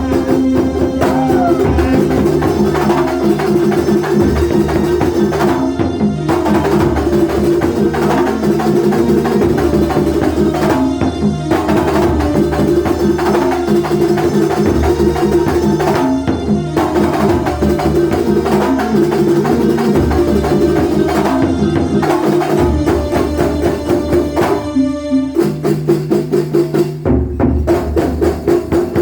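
Live kuntulan music from Banyuwangi: hand drums and other percussion keep a dense, steady beat under a sustained melody.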